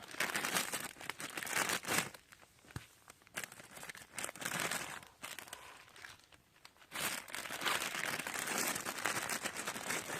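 Irregular bursts of crinkling, rustling noise with scattered sharp clicks, heaviest in the first two seconds and again from about seven seconds in, with a quieter stretch between.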